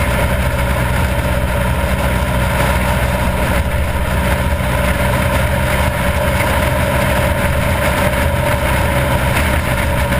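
Harley-Davidson V-twin motorcycle engine running steadily at highway cruising speed, with wind rushing over the microphone.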